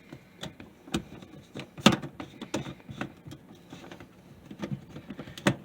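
Irregular clicks and knocks of sink drain pipe fittings being handled, lined up and threaded back together, with the sharpest knock about two seconds in.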